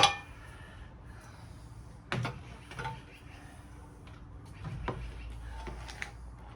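Handling noises on a workbench while a power cord and plug are dealt with: a sharp clatter at the start, then a few light knocks and clicks spaced a second or two apart over a low hum.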